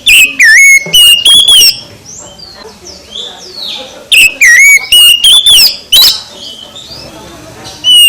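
Oriental magpie-robin (kacer) singing loud, varied whistled phrases mixed with harsh notes. There are two bouts, one at the start and one about four seconds in, each repeating the same dipping-and-rising whistle motif, with quieter calls in the pause between.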